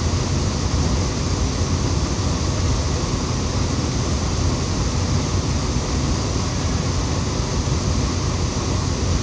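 Waterfall rushing, a loud, steady wash of water noise.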